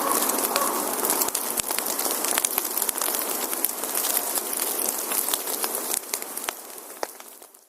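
Firewood burning in a campfire, crackling steadily with frequent sharp pops and snaps over a soft hiss. The sound fades out near the end.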